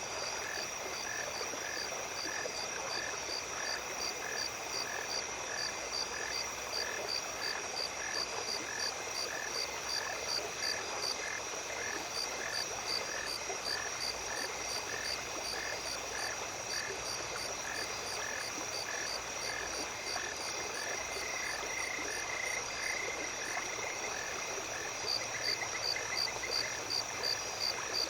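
Night ambience of a small stream trickling, under a chorus of night insects and pulsed calls. A steady high trill runs throughout, and a call repeats a little under twice a second.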